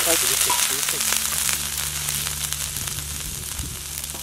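Chopped ginger sizzling in hot oil in a wide metal pan over a wood fire, stirred with a wooden spatula. The sizzle slowly dies down.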